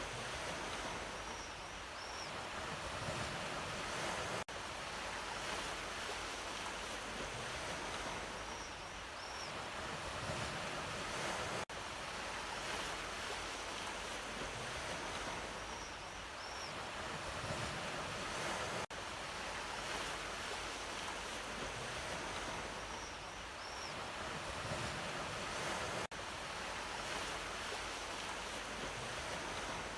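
Sea waves washing continuously onto the shore, a steady surf that swells and eases. It is a short loop that repeats about every seven seconds, with a brief dip in sound at each join.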